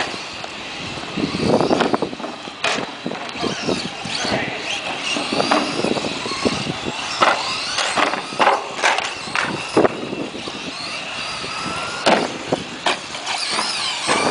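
Radio-controlled short-course trucks racing, their electric motors whining high and sliding up and down in pitch as they speed up and slow down. Many short clicks and knocks are scattered through it.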